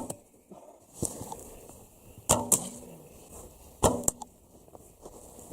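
Archery bow being shot repeatedly: sharp, short snaps of the string and arrow, several of them coming in close pairs about a quarter second apart.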